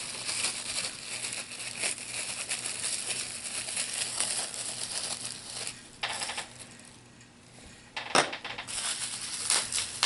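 Plastic booster packaging crinkling and small plastic HeroClix figures and pieces clicking and rattling as they are handled, with a lull late on and one sharp click just after it.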